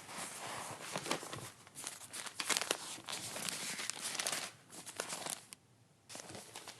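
Paper crinkling and tearing in rapid crackly bursts that stop about five and a half seconds in, with one more short burst near the end.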